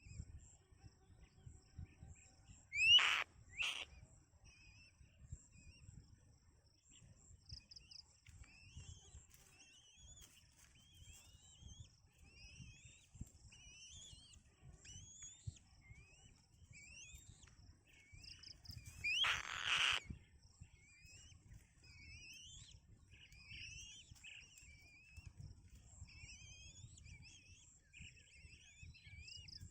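Birds calling: many faint, short, rising chirps repeat through most of the stretch. Two loud calls come about three seconds in, and a longer loud call comes around two-thirds of the way through.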